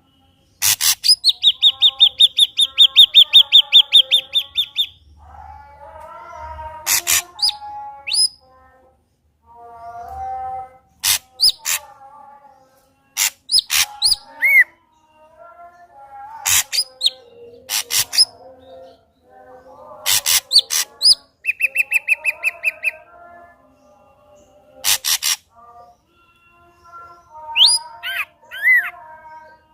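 Ashy drongo singing a loud, varied song. It mixes fast runs of repeated high notes (the longest about a second in, a shorter one past the middle), sharp whip-like cracks, and lower warbling phrases, with brief pauses between phrases.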